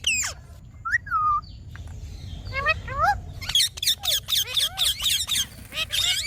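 Ringneck parrot (rose-ringed parakeet) calling: one short gliding call about a second in, then a rapid run of sharp chirping calls from about two and a half seconds on.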